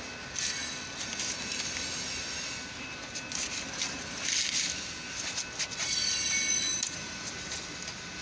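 Union Pacific freight train of covered hopper cars rolling through a grade crossing, heard from inside a car: a steady run of wheel-on-rail noise with scattered clicks, and high thin tones that come and go.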